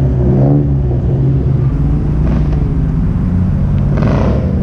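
Car engines running at low speed with a steady, loud low rumble, as cars roll into and idle in a parking lot.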